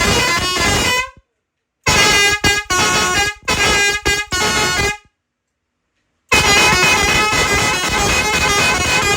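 Bosco multi-tone pressure horn for trucks, sounding loud stepping notes. One blast cuts off about a second in, then about five short blasts follow in quick succession, and a long held blast starts about six seconds in.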